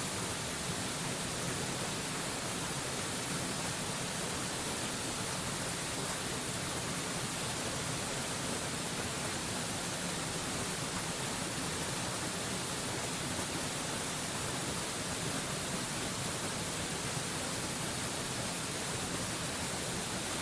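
Waterfall rushing: a steady, even hiss of falling water with no changes, heaviest in the high range.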